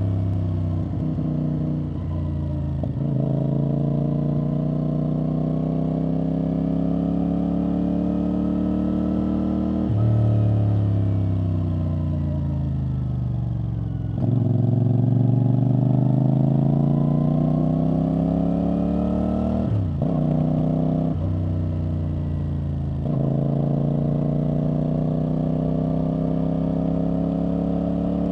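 CFMoto CL-C 450 motorcycle's exhaust while riding: the engine climbs in pitch through the gears with brief dips at each upshift. Midway the pitch winds down for a few seconds as the bike slows, then jumps back up and climbs again under acceleration.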